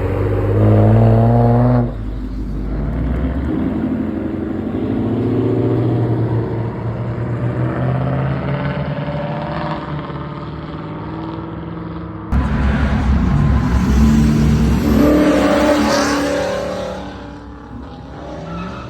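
Car engines revving and accelerating hard, the engine pitch climbing, in segments that change abruptly about two seconds in and again past twelve seconds. Near the end a loud acceleration peaks and then fades away.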